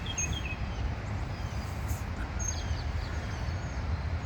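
Songbirds chirping in short, quick downslurred notes, a run of them right at the start and a few fainter ones midway, over a steady low rumble.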